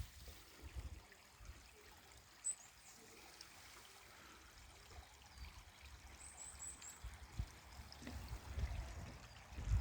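Mountain valley stream running, a faint steady rush of water. A few short high chirps come around the middle, and low thumps build up near the end.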